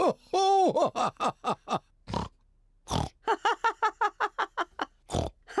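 Cartoon pig voices of the Peppa Pig characters grunting and oinking in quick pitched pulses, about six a second. A few short snorts break in, one about two seconds in, one about three seconds in, and one near the end.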